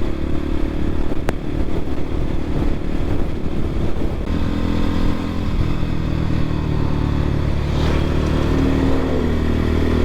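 X-Pro Templar X 250 dual-sport dirt bike's single-cylinder four-stroke engine running steadily under load as the bike climbs a road uphill, its pitch settling lower about four seconds in. A single sharp tick comes about a second in.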